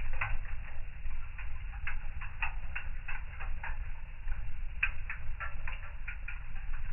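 Wood fire crackling in a fireplace: irregular snaps and pops come several times a second over a low steady rumble.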